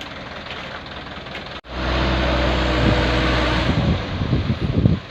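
Dump truck diesel engine running. It jumps much louder after an abrupt cut about one and a half seconds in, to a steady low drone that turns rougher and more uneven toward the end.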